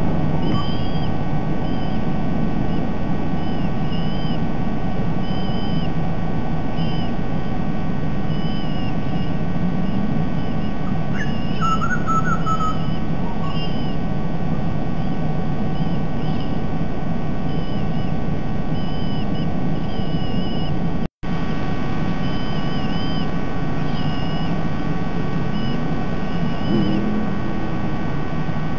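Short high chirping calls from a bird, repeated about every second and a half over a steady rushing background noise. A lower warbled phrase comes about twelve seconds in.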